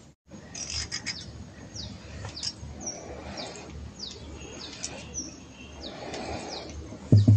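Birds calling: short, high whistled notes that slide down in pitch, repeated every half-second or so. A few light clicks come about a second in, and a single loud knock near the end.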